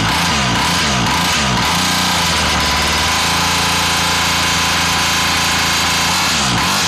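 Custom 49cc mini quad bike engine running with no muffler, loud: revved in quick blips at first, held at a steady speed from about two seconds in, then blipped again near the end.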